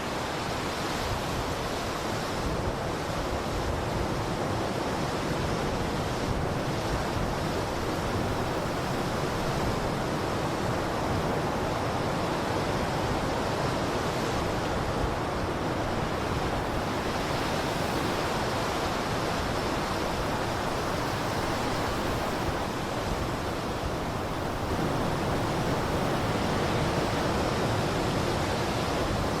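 Blizzard wind blowing steadily, an even hiss with no gusts or other sounds, growing slightly louder about 25 seconds in.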